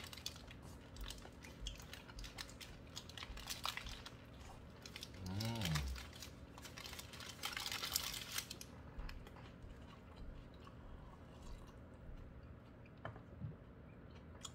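A person biting and chewing a beef hamburger held in its paper wrapper, with wet mouth clicks and the wrapper crinkling, and a short hummed "mmm" about five seconds in. The chewing turns quieter after about eight seconds.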